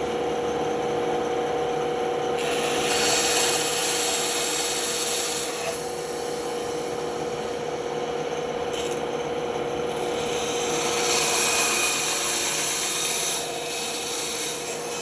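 Band saw running with a steady hum, its blade cutting wood in two passes: one starting about two and a half seconds in and one about ten seconds in, each adding a rasping hiss over the hum.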